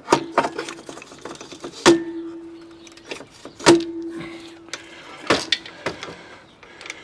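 Metal tools and parts clanking while a motorcycle's front end is reassembled: a string of sharp knocks, three of which ring on with a steady metallic tone for about a second.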